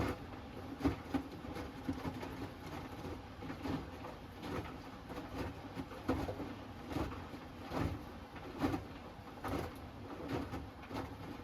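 Hoover Axi 10 kg front-loading washing machine running its Rapid 30-minute programme: the drum turning, with wet laundry dropping and sloshing about once a second.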